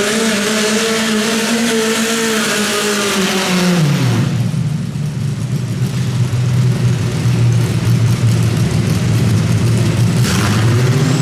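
Modified pulling garden tractor's engine running hard at high revs, its pitch dropping sharply about four seconds in to a lower steady speed, then rising again as it revs up near the end.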